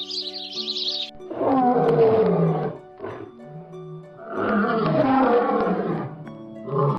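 A large animal calls twice, two long, rough calls about a second and a half each that fall in pitch. A short, weaker call follows each one. Background music plays throughout, and bird-like chirping fills the first second.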